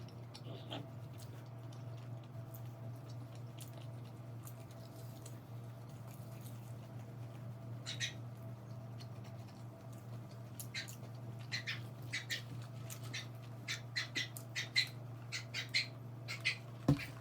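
A dog whining and yipping in short, high cries, scattered at first and then coming in quick runs over the last several seconds.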